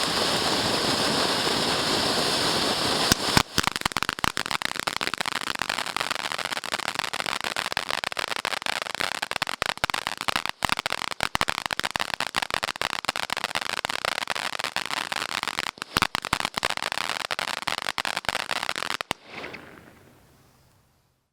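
Tiger's Roar XL firework fountain burning: a steady hissing spray with a thin high whistle, then from about three seconds in a dense run of rapid crackling. The crackling stops near the end and the sound dies away.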